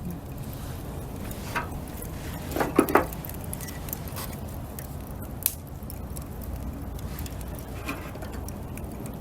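Wood fire burning with scattered small crackles and pops over a low steady rumble. A brief cluster of louder knocks and pops comes about three seconds in.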